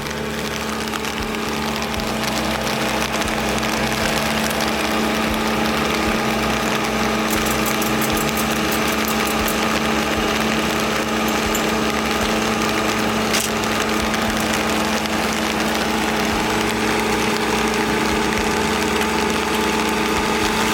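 Engine of the machine pushing a manufactured house, running steadily and growing a little louder over the first few seconds.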